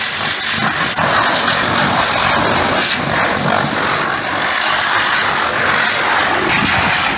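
Pressure washer jet spraying water, a steady loud hiss with no pauses.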